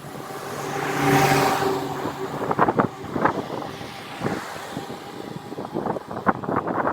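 A car passing close by, its engine hum and tyre noise swelling to the loudest point about a second in and then fading. A series of sharp clicks and knocks follows.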